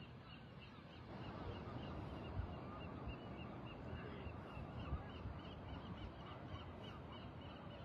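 Faint, rapid calls of a flock of birds, about four a second, over a steady rushing background.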